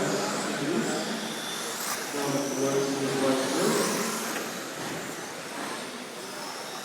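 1/10-scale electric RC touring cars racing past, their motors whining high and rising and falling in pitch as they speed up and slow down.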